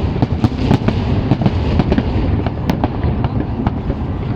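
Fireworks display going off: a dense run of crackling pops and bangs over a continuous low rumble of booming bursts, with a few sharper cracks standing out.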